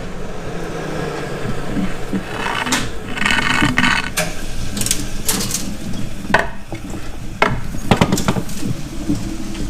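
Scattered clicks, clanks and short rattles of metal parts and hand tools being handled and set down on a workbench.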